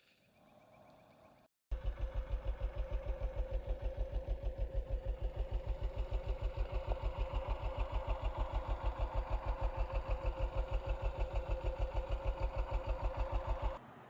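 Honda XR650L's single-cylinder four-stroke engine idling with an even, steady thump. It cuts in suddenly about two seconds in and cuts off just before the end.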